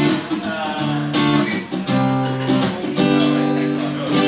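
Acoustic guitar strummed in a live song performance, a fresh chord struck about once a second.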